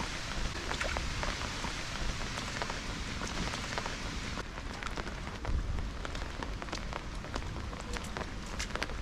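Heavy rain falling: a steady hiss with many sharp ticks of drops striking nearby surfaces.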